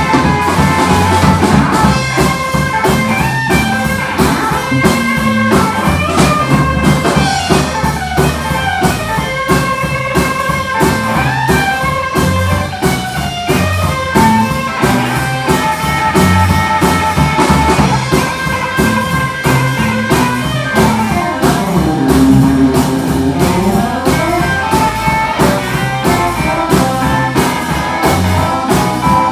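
A live rockabilly band playing a mostly instrumental passage: a guitar lead over a drum kit keeping a steady, driving beat.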